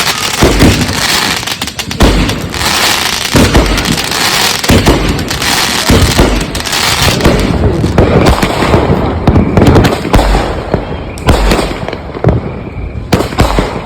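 Consumer aerial fireworks cakes firing in rapid succession: a dense run of loud booms, many a second at times, with crackling between them.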